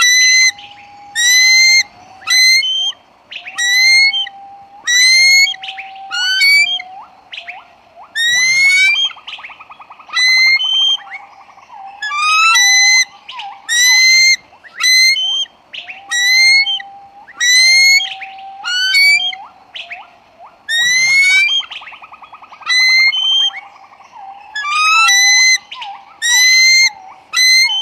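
Bird calls: loud, shrill, rising squeals repeated about once a second, with lower steady whistles and a buzzy trill between them. The whole sequence repeats about every 13 seconds, like a looped recording.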